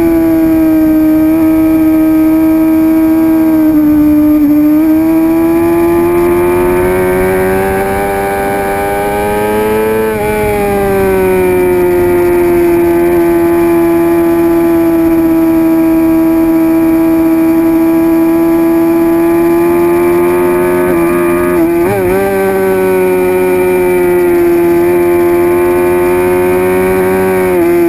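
2006 Suzuki GSX-R750's inline-four engine held at high revs under load, its pitch climbing slowly until about ten seconds in, then easing and holding steady. A quick flicker in pitch comes about twenty-two seconds in, and the pitch starts to fall right at the end.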